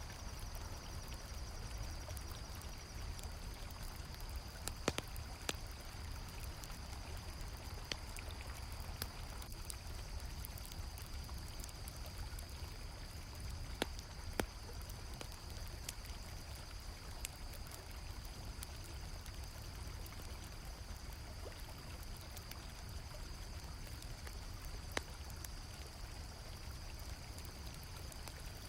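River water flowing steadily under a constant high chirring of crickets, with a campfire giving a few sharp crackling pops scattered through.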